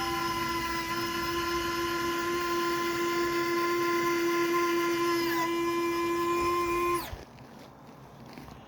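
Radio-controlled P-47 warbird model's motor and propeller running at a steady pitch as a high whine, then throttled off about seven seconds in, the pitch dropping quickly as it spools down.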